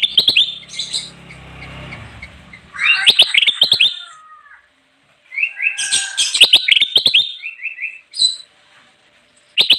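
Kutilang emas bulbul singing: phrases of quick chirping notes, each about a second or two long, broken by short pauses.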